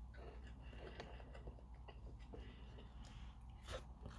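Faint chewing of a mouthful of rice and rendang with the mouth closed: soft scattered mouth clicks over a low steady hum.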